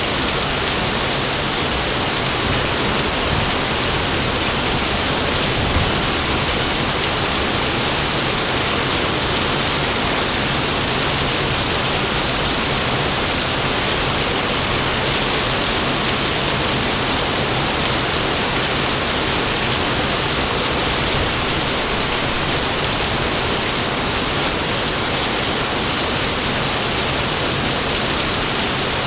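Heavy rain pouring steadily, a dense even hiss, with the low rumble of thunder dying away in the first few seconds.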